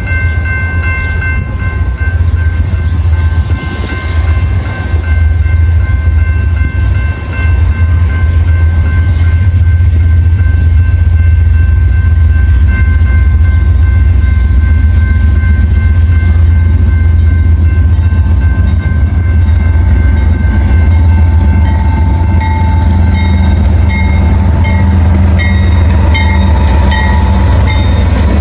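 A train passing close by, with a heavy, steady low rumble throughout. A chord of steady high tones fades over the first several seconds, and rapid regular clicking builds in the last several seconds.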